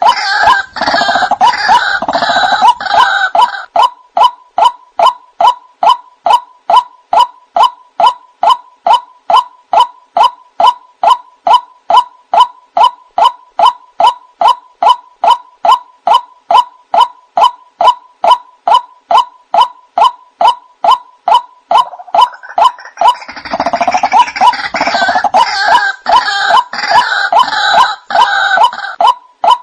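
White-breasted waterhen (ruak-ruak) calling. Harsh, croaking call phrases open the stretch and return about 23 seconds in. Between them runs a long, even series of short single notes, a little over two a second.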